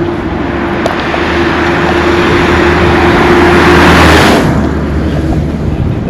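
A motor vehicle driving past at speed close by. Its engine and tyre noise builds to a peak about four seconds in, then falls away quickly.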